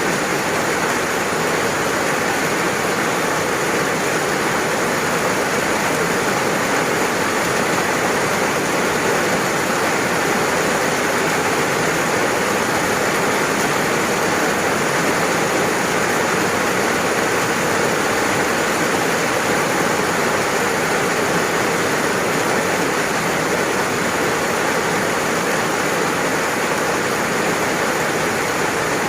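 Steady rainfall, an even hiss of water with no breaks or single drops standing out.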